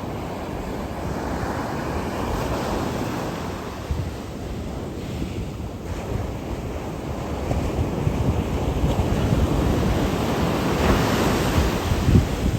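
Sea waves breaking and surging in on the shore in a steady rushing wash, with wind buffeting the microphone. The surf swells louder near the end.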